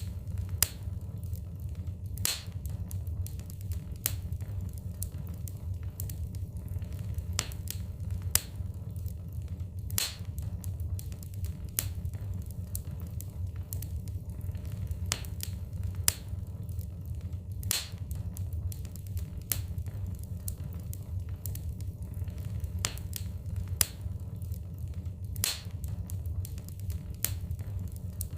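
Wood fire burning in a fireplace: a steady low rumble with sharp, irregular crackles and pops of the burning logs.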